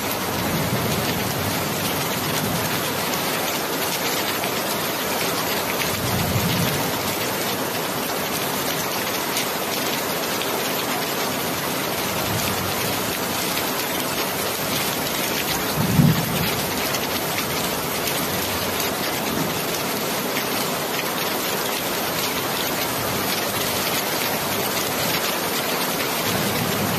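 Steady heavy rain falling and pattering on surfaces, with a few brief low thumps, the loudest about 16 seconds in.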